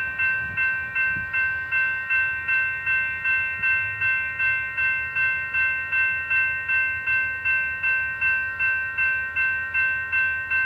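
Railroad grade-crossing bell ringing steadily, about two and a half strikes a second, with a train's low rumble underneath.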